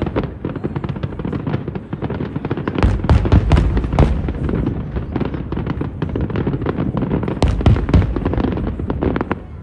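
Aerial fireworks going off in a dense barrage: a rapid string of sharp bangs with deep booms, heaviest from about three seconds in and again from about seven and a half seconds in.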